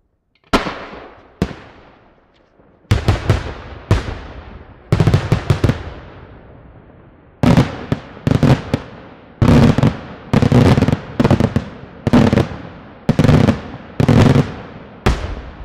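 Daytime aerial fireworks shells bursting overhead: over a dozen loud bangs, some as quick clusters of cracks, each followed by a rolling echo that dies away. After near silence for about half a second, the reports come irregularly at first, then settle into a steadier run of about one bang a second from about halfway through.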